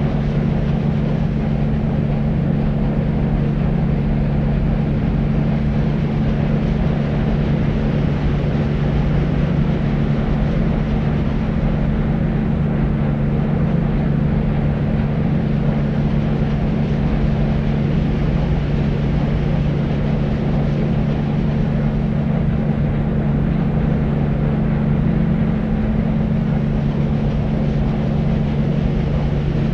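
Deep white noise: a steady, unchanging hiss weighted toward the low end, with a low hum running underneath.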